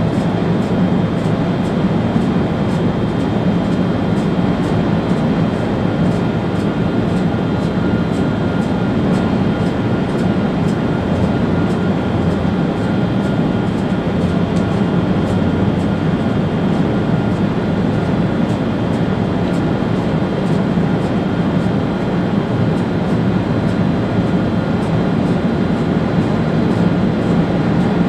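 ÖBB Railjet train running steadily at speed, heard from the driver's cab: continuous rolling and running noise, with a thin steady whine joining about six seconds in.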